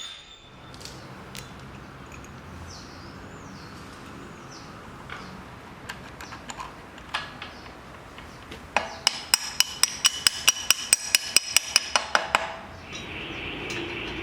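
Hammer striking a steel anvil in a fast, even run of about five ringing blows a second for roughly three and a half seconds, after a few scattered lighter knocks. A steady hum starts shortly after the hammering stops.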